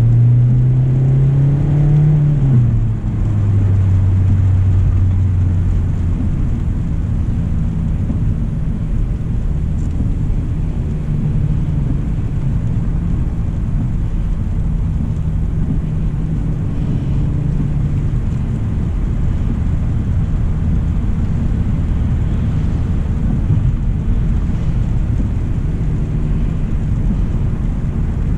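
2025 Hyundai Elantra SEL driving, its four-cylinder engine humming with low road rumble. The engine note rises for the first two seconds, drops at about three seconds, then holds steady.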